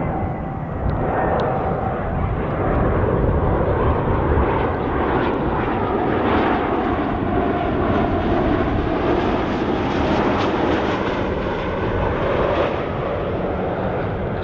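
Jet airliner passing close by as it comes in to land: a steady engine rush with a faint whine, a little louder through the middle.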